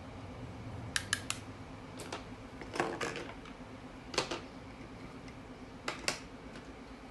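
A few sharp clicks and taps, some in quick clusters of two or three, over a steady low hum.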